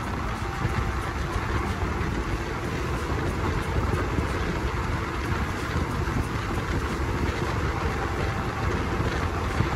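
Steady running noise of a moving passenger train heard from aboard: a continuous low rumble of wheels and carriage, with wind rushing past the microphone.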